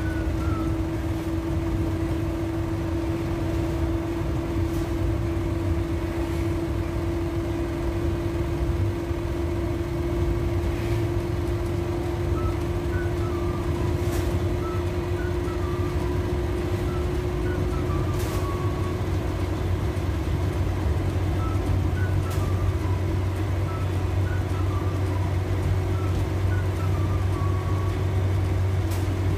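Suzuki Carry running along at a steady cruise, heard from inside the cab: a low engine hum with a steady whine that creeps slowly up in pitch, and a few light knocks.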